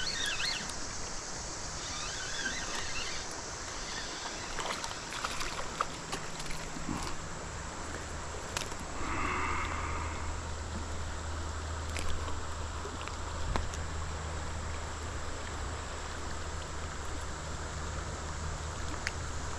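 Creek water running steadily over riffles, with a low steady hum coming in about a third of the way through.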